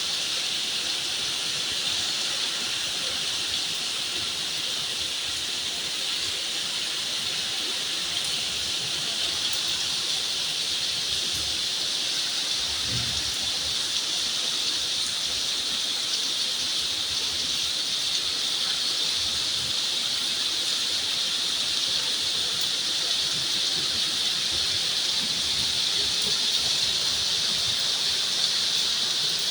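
Heavy rain falling in a steady hiss, growing slightly louder toward the end.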